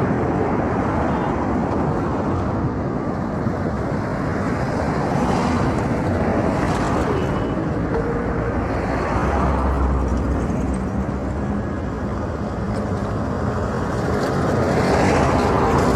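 Road traffic: a steady rush of vehicle noise, with passing cars swelling about a third of the way in, again midway, and near the end.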